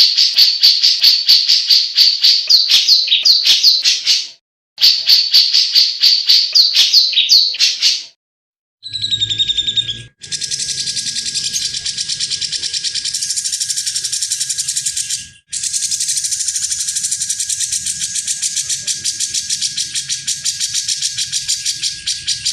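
Cucak jenggot (brown-cheeked bulbul) singing a fast chattering song of rapidly repeated high notes, in two bursts about four seconds long. After a short break it gives way to a denser, continuous high trill with a faint steady hum behind it, which breaks off once briefly.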